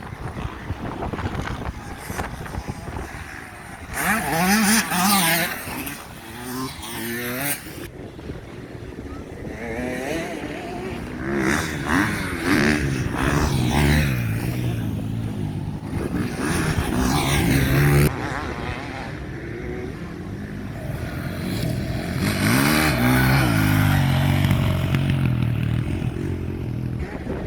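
Motocross dirt bike engines revving hard and passing in several waves, their pitch rising as they accelerate and dropping as they back off for the jumps.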